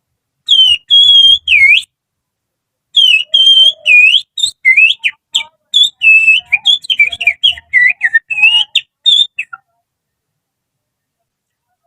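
Human finger whistle, blown with the little finger, imitating an oriental magpie-robin's (kacer) song. Three drawn-out whistled notes, a short pause, then a quick run of rising and falling chirps and trills that stops suddenly about two seconds before the end.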